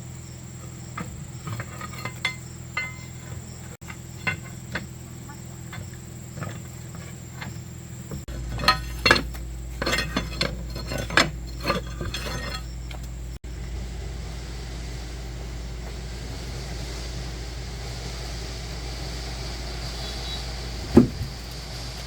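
Metal tools and parts clinking and knocking together during hand repair work, with a busy run of sharper clanks in the middle and one loud knock near the end, over a steady low hum.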